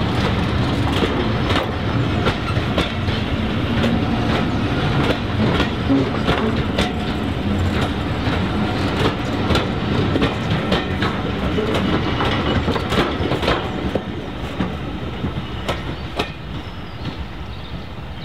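Diesel-hauled train running past, its wheels clicking rapidly over the rail joints, the sound easing off over the last few seconds.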